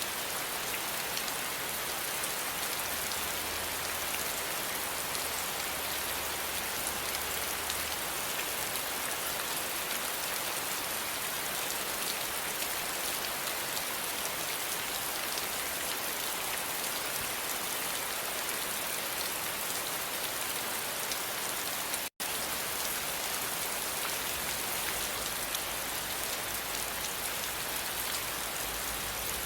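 Steady rain: a dense, even patter of drops, bright and hissy, that cuts out for an instant about three-quarters of the way through.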